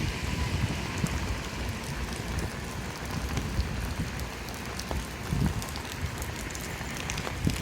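Steady rain falling on a street, with scattered sharp drop ticks over a constant hiss.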